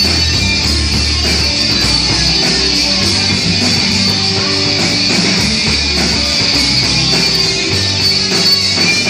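Loud rock music with distorted electric guitar and bass, playing steadily.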